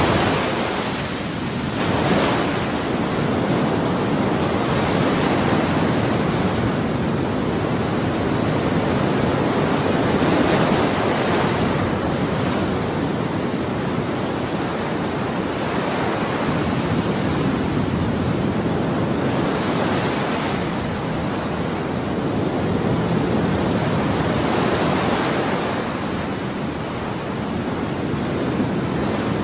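Ocean surf washing in continuously, a dense hiss of breaking waves that swells and eases every few seconds.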